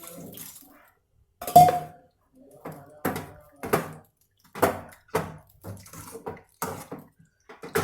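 A metal spoon knocking and scraping against a kadhai (wok-style cooking pot) as the chicken is stirred after water is added. There are about a dozen irregular clinks; the first, about one and a half seconds in, is the loudest and rings briefly.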